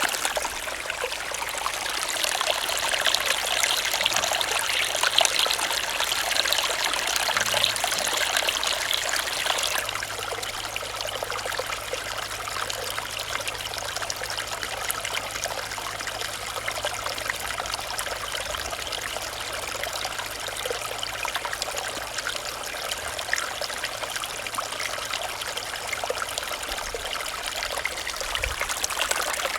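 Small stream running over stones, a steady trickling and babbling of water, a little fuller in the first third.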